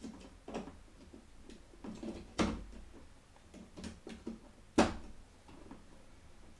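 DDR4 RAM sticks being handled and pressed into a motherboard's DIMM slots: a run of small plastic clicks and knocks, with two sharp snaps about two and a half and five seconds in.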